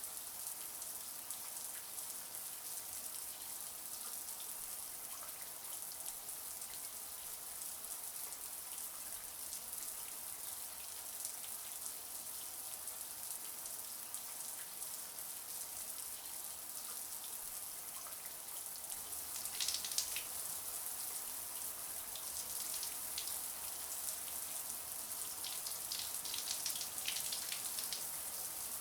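Shower water running steadily: an even hiss of spray with fine spattering. Louder splashes come briefly about twenty seconds in, and again in a cluster near the end.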